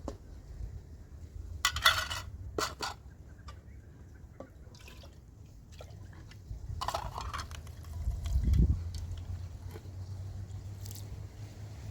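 Liquid sounds: short bursts of splashing or pouring about two seconds in and again around seven seconds, a low thud shortly after, over a steady low hum.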